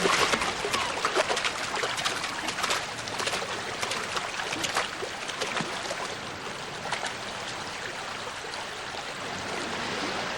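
A shallow salmon river running, with short splashes over the first half that thin out into steady water flow.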